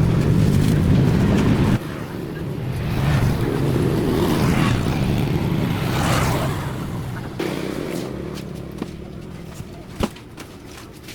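Motor vehicle engine running, cut off abruptly about two seconds in, followed by road traffic noise that swells and fades, with another abrupt change about seven seconds in and a sharp click near the end.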